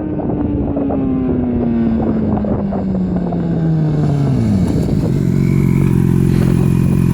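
Yamaha FZ6N's inline-four engine through an aftermarket Ixil exhaust, its pitch falling steadily as the revs come down, then settling into a steady idle about five seconds in.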